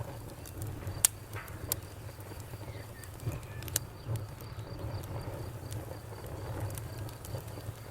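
Campfire burning with a steady low rumble and scattered sharp crackles and pops, the loudest about a second in and near four seconds in. Crickets chirp in an even, steady pulse behind it.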